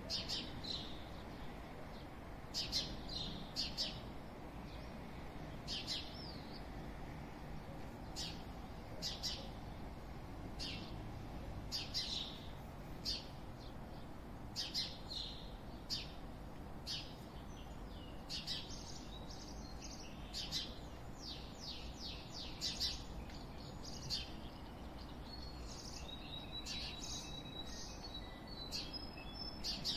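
Small birds chirping, short high calls repeated every second or so, over a steady low background rumble. Near the end a high, steady trill joins in.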